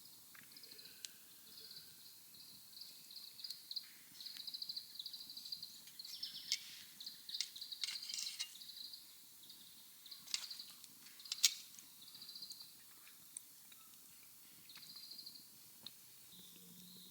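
Small birds singing high, rapidly pulsed trilling phrases, mixed with the sharp pops and crackles of a wood fire. The loudest pops come about ten and eleven seconds in.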